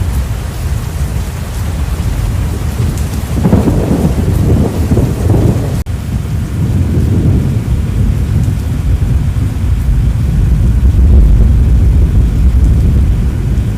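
Loud storm noise: a heavy low rumble of wind buffeting the microphone with rain. It surges louder about three and a half seconds in, dips sharply for an instant near six seconds, and swells again late on.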